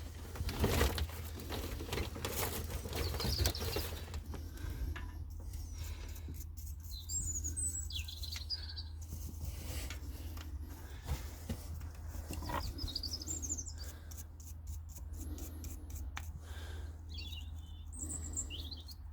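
Scratching for the first few seconds, a wire brush scrubbing a soot-blackened two-stroke spark plug, then small birds chirping on and off, all over a low steady hum.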